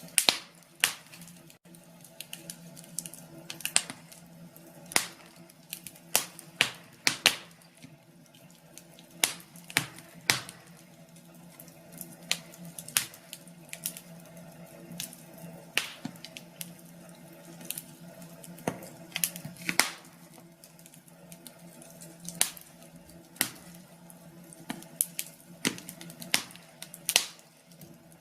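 Wood fire crackling: irregular sharp pops and snaps, several a second, over a faint steady hum.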